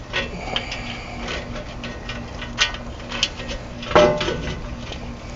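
Scattered metal clinks and knocks of tools and parts being handled while a plate is bolted back up under a pickup truck, with one louder knock about four seconds in.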